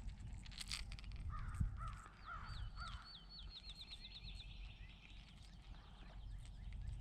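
Birds calling at the lakeside: four short arched calls, then another bird's quick run of about a dozen falling high notes. A few light knocks, the loudest near the middle of the calls.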